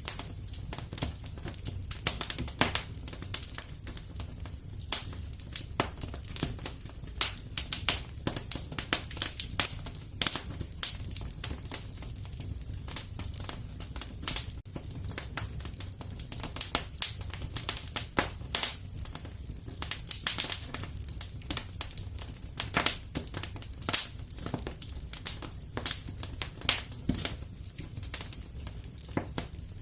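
Wood fire crackling steadily, with frequent irregular sharp pops and snaps over a low steady rumble of the flames.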